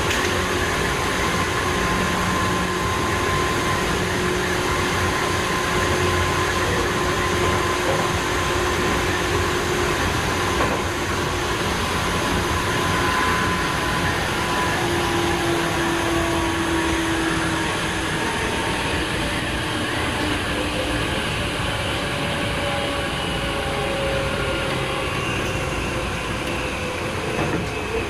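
Tokyu 8500 series electric train, motor car DeHa 8535, running on the line, heard from inside the car. A steady rumble of wheels on rail carries several humming tones from the motors and gears that drift slowly in pitch.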